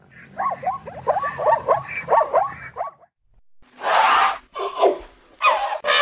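Plains zebra calling: a rapid run of short, high barking yelps for about two and a half seconds, then a pause and three louder, harsher braying bursts.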